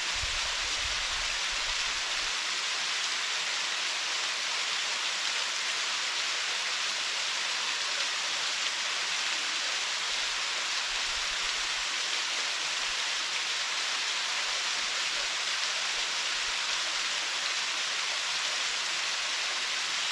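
Waterfall: a steady hiss of falling water splashing into its pool, even throughout, with brief faint low rumbles.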